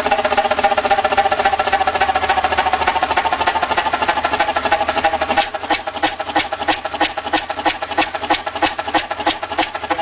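Old engine running with a rapid, even mechanical beat; about halfway through the beat becomes more distinct, around four or five strokes a second.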